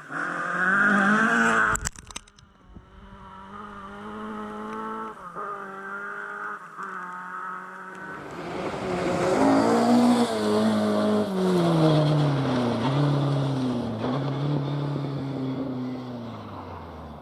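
Rally car engines at full revs on a gravel forest stage. One car is loud for about two seconds, then a short clatter; another is heard further off shifting up through the gears, grows louder from about eight seconds in, and its engine note drops in steps as it brakes and downshifts, fading near the end.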